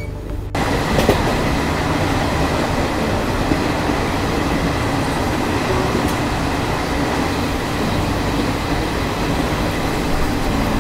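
Music cuts off about half a second in, giving way to the steady running noise of a Garib Rath Express passenger coach moving along the track, with wheels rumbling and clicking on the rails.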